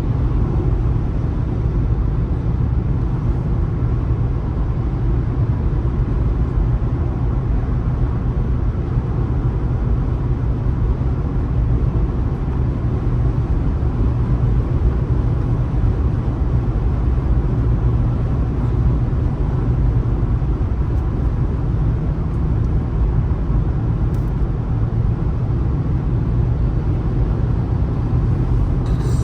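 Steady low rumble of a car driving on a road: engine and tyre noise at an even pace, with no change in speed.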